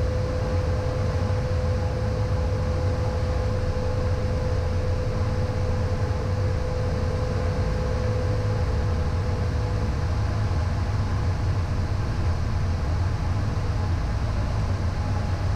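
Cockpit noise of a Beechcraft Premier I business jet in flight: a steady low rumble of engines and airflow, with a thin steady tone that fades out a little past halfway.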